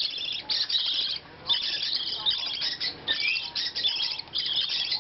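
Budgie chicks giving rapid, raspy, high-pitched begging calls while being handfed. The calls come in runs of about half a second to a second, with short pauses between.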